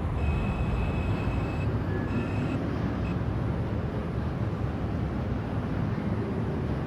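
R142 subway car running between stations, heard inside the car: a steady rumble of wheels and running gear, with a thin high steady tone sounding on and off during the first three seconds.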